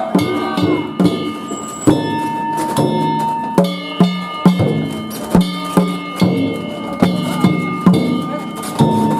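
Danjiri festival music: a taiko drum struck in a steady beat about twice a second, with metal gongs clanging and ringing over it.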